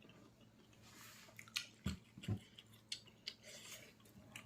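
A person chewing pork leg, with several sharp mouth clicks in the middle of the chewing.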